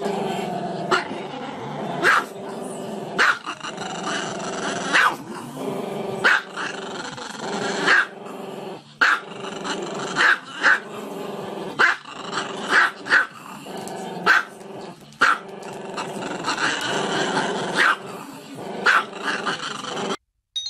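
Small dog howling with its muzzle raised: a drawn-out, wavering, growly howl broken by sharp barks about once a second.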